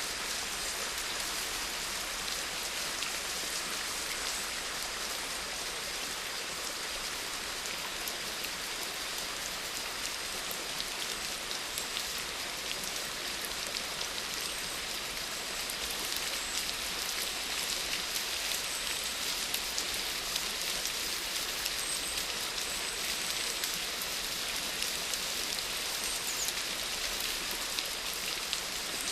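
Steady rain falling, a constant hiss with many fine individual drops pattering on a surface.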